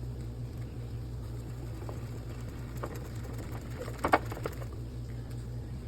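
Steady low hum in a kitchen, with a few light clicks and a short clatter of knocks about four seconds in, like utensils against a pan on the stove.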